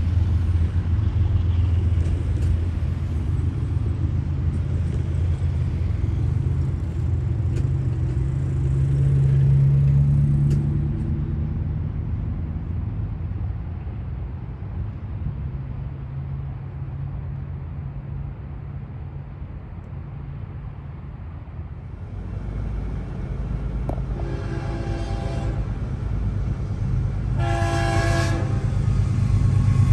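Diesel-hauled train rumbling past and fading away. Then a train's air horn blows two long blasts near the end, with a third starting just as it ends.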